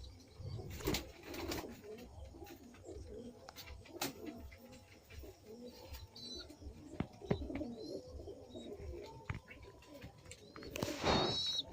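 Madrasi pigeons cooing softly and repeatedly, with scattered small clicks. A short, louder burst of noise comes near the end.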